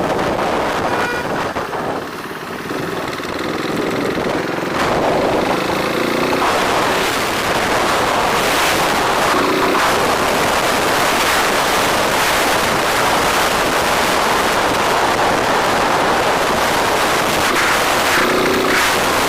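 Steady rush of wind and motorbike road noise while riding through city traffic. A few short tones sound over it: one about three to six seconds in, one around ten seconds, and one near the end.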